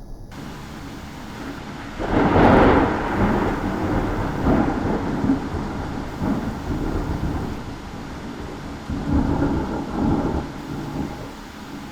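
Thunder over steady rain: a sudden loud peal about two seconds in, followed by a long rolling rumble that swells again several times.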